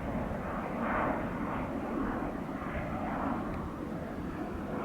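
Saab Draken jet fighter's engine noise, a broad rumble that swells and fades in a repeating pulse of about two a second, slowly dying away. The pulsing comes from the sound echoing off the chalk cliffs.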